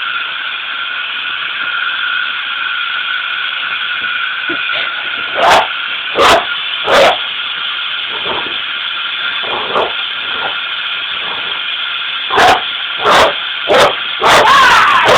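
A vacuum cleaner runs steadily while a dog barks at it: three loud barks about halfway through, then another run of barks near the end, the last one drawn out.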